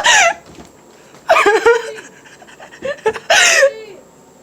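Three short, loud, high-pitched vocal cries, about a second and a half apart.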